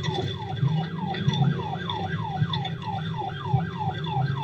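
Police car siren on a fast yelp, repeating a quick falling wail about four times a second, over the low rumble of a vehicle.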